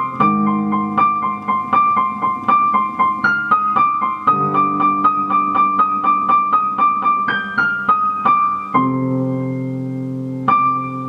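Background piano music: a steady run of quick repeated notes, about four a second, over held low chords, pausing a little under nine seconds in for a sustained chord.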